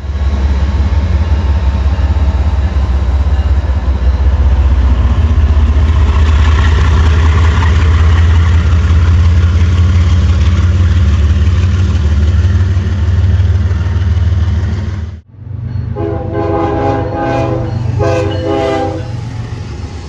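Train passing close with a loud, steady low rumble. After a sudden cut, a train horn sounds two blasts.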